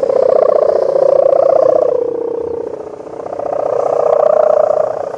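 Kite hummer (sendaren) droning in strong wind: a steady buzzing tone that fades about three seconds in, swells again, then drops near the end.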